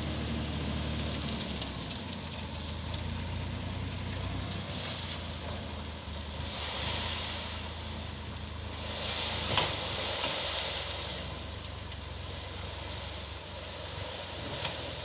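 Truck engine running steadily with a low hum. Two short hisses come about seven and ten seconds in, and one sharp knock about nine and a half seconds in.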